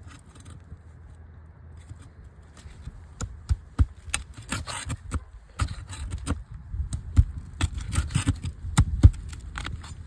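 Scraping and sharp irregular clicks of a tool working an old roofing nail loose from under a shingle, starting about three seconds in and going on in uneven strokes for several seconds.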